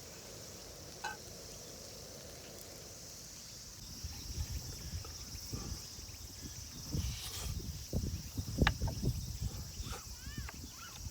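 Insects chirring steadily in high grass. From about four seconds in, low rumbling and irregular thumps come in.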